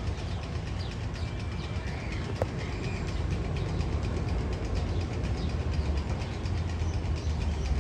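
Magnum XL 200 roller coaster train rolling along its steel track: a steady low rumble with rapid fine clicking.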